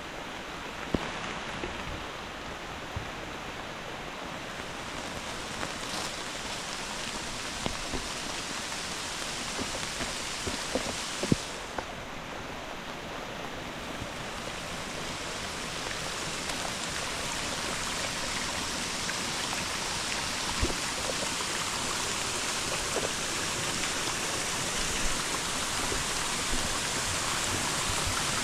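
Steady hiss of hard rain mixed with a rushing, flood-swollen creek, slowly growing louder. A few scattered sharp knocks come through the hiss.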